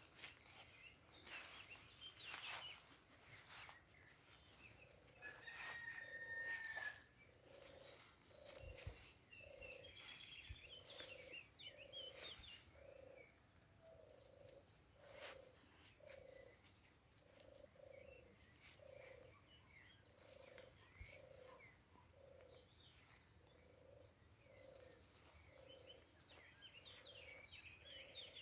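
Faint wildlife sounds: an animal repeats one short low call about once a second, with scattered higher bird chirps and a brief held whistle over it. A few clicks and rustles come in the first seconds.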